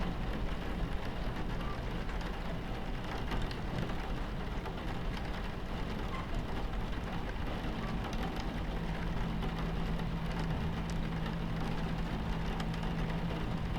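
Rain falling on a train window over the steady low rumble of a moving train, with a low hum that grows stronger about halfway through.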